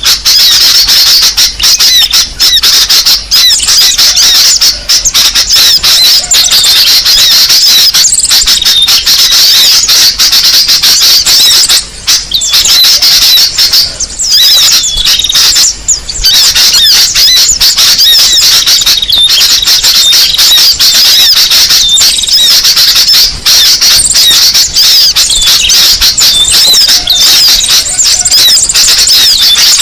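Bird-lure recording of many small birds chattering: a dense, unbroken stream of high-pitched chirps and trills, played loud, with a few brief dips around the middle.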